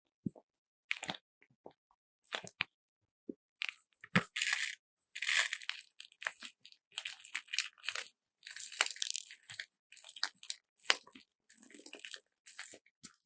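A handmade squeeze bag filled with slime and glitter beads being squeezed and kneaded by hand, making irregular crunchy, crackling squishes. The squeezes come sparsely at first and closer together from about four seconds in.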